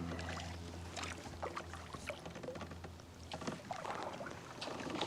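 A kayak moving through shallow creek water, with small splashes and light clicks and knocks on the hull. A low steady hum fades out in the first second or two.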